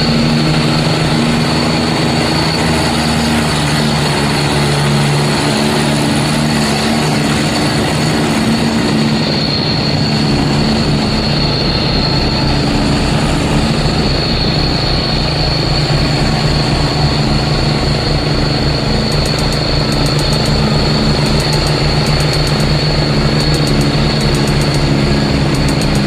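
Vehicle engine running steadily, a low drone with a thin, steady high whine over it.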